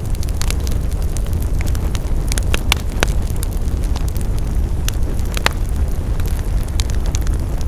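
Wood fire crackling: a steady low rumble of burning with frequent sharp pops and snaps scattered irregularly, a few louder ones about three and five and a half seconds in.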